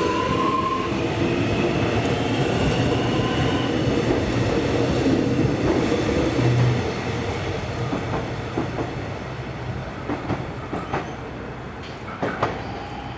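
Electric suburban train moving past the station, its traction motor whine rising in pitch in the first second. Then the wheel rumble fades, with scattered clicks from the wheels over rail joints near the end.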